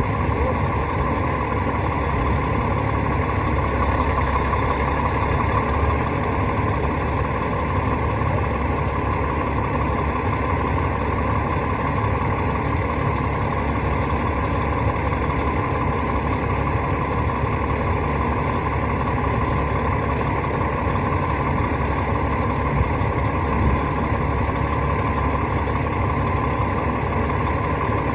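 Rooftop HVAC unit running steadily: a constant mechanical drone with a steady hum, unchanging throughout.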